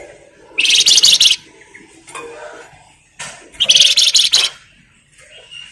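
Flamboyan songbird giving two loud, high-pitched, rapid chattering trills, each just under a second long and about three seconds apart.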